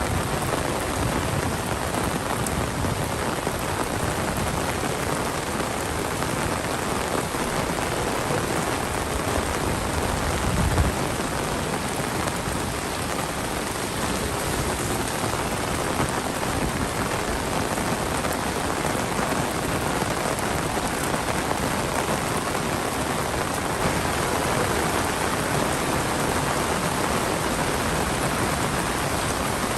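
Heavy monsoon rain falling steadily, a dense, even hiss of rain on surfaces. A brief low thump about eleven seconds in.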